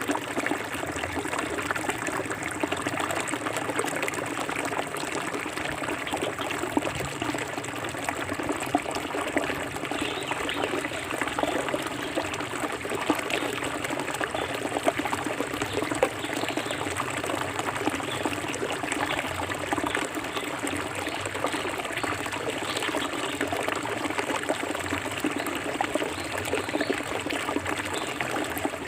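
Forest river water running steadily over stones, a continuous trickling and splashing with many small bubbling ticks.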